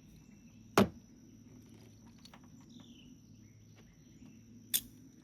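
Two sharp plastic clicks about four seconds apart, the first much louder, as a modified universal lanyard key is tried on the jet ski's kill switch. Faint falling chirps sound twice in the background.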